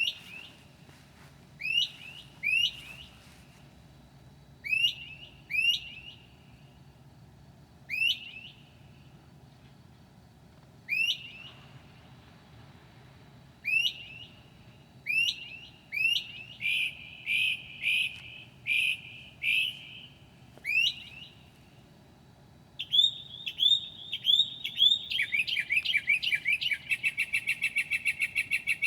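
Northern mockingbird singing at night: sharp down-slurred notes repeated a second or more apart, then a run of harsher buzzy notes, and in the last few seconds a fast series of repeated notes, several a second.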